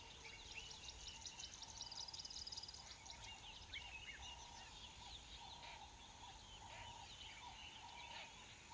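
Faint birdsong: several small birds chirping, with quick downward-swept notes and an occasional fast trill, over a low steady rumble.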